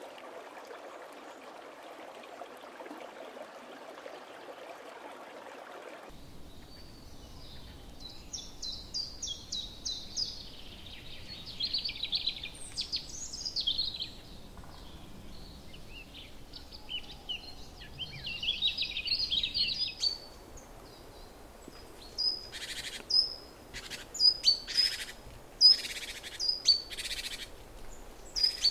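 Water trickling steadily for the first six seconds, then wild birds calling and twittering in high, varied phrases. Near the end come sharp, short high chip notes, about one or two a second.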